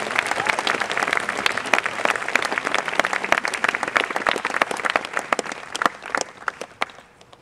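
Audience applauding at the end of a live performance, with a whoop or two at first; the clapping thins out about six seconds in and dies away near the end.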